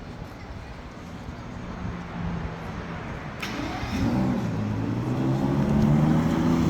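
A car engine approaching and getting louder, its note rising a little as it accelerates from about four seconds in, with a sharp click just before.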